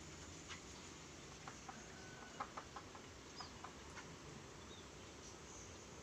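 Quiet aviary with faint scattered taps and a few brief, faint high chirps from small birds.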